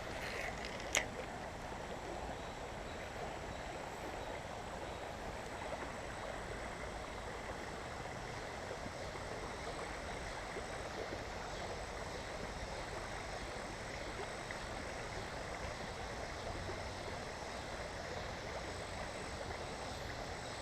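Steady rushing of shallow creek water running over rocks, with a single short click about a second in.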